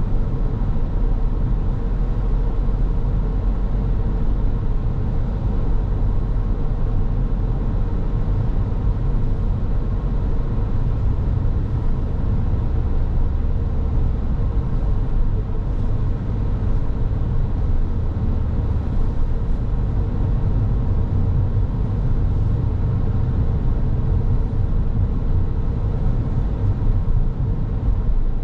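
Car driving along a road: steady low rumble of tyres and engine, with a faint steady hum.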